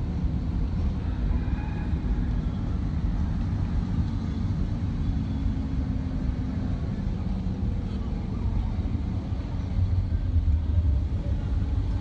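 Steady engine and road rumble inside a moving shuttle van's cabin, a little louder near the end.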